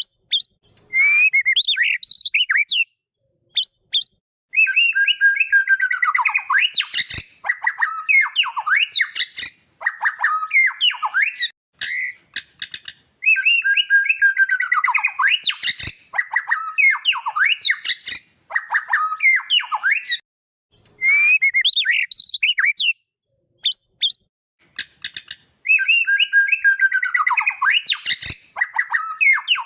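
White-rumped shama (murai batu) song: loud whistled phrases and chattering notes with short pauses between them. The same song sequence comes round several times, as a looped training recording does.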